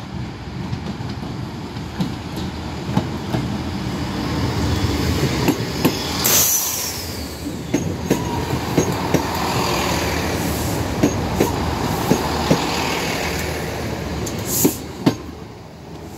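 Diesel passenger train passing at close range over a level crossing: a steady rumble with sharp clacks, many in pairs, as the wheels cross the rail joints. A brief hiss comes about six seconds in, and two loud clacks near the end as the last wheels pass.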